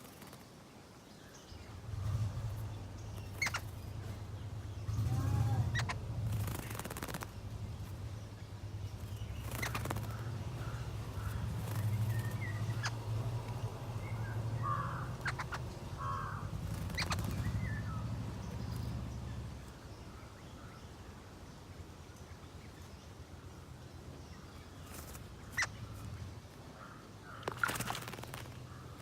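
Bird sounds: a few short chirps and calls with scattered clicks and taps, over a low hum that stops about two-thirds of the way through.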